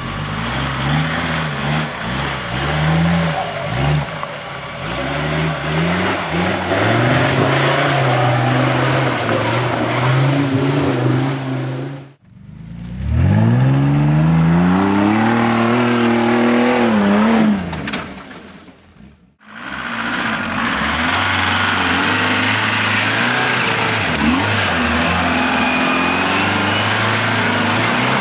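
Off-road 4x4 competition vehicles' engines revving hard, the pitch climbing and falling with the throttle, with tyre and mud noise; the sound breaks off abruptly twice, as edits between shots.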